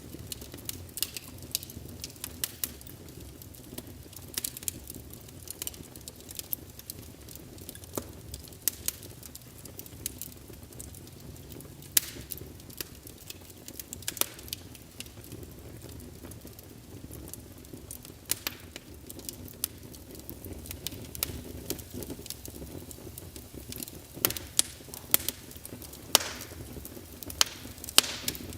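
Wood fire burning in a fireplace: irregular sharp crackles and pops from the logs over a steady low rumble of flame. The crackles come thickest near the end, with a single loudest pop about twelve seconds in.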